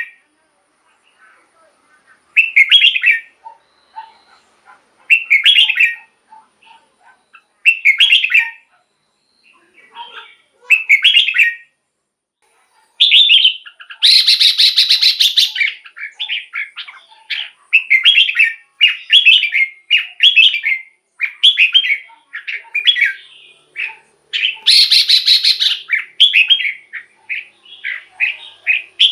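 Red-whiskered bulbul singing: short whistled phrases every few seconds, then, from about halfway, a fast continuous run of phrases broken twice by louder, noisier bursts.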